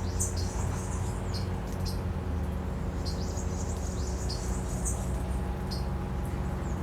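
Small songbirds calling with short, high, thin chips and squeaks, some sliding down in pitch, repeated irregularly over a steady low hum.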